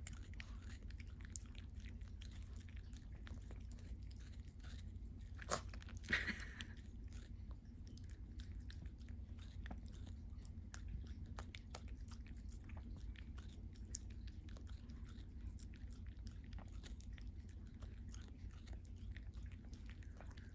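Pomeranian chewing and crunching: faint small clicky crunches throughout, with a couple of louder crunches about six seconds in.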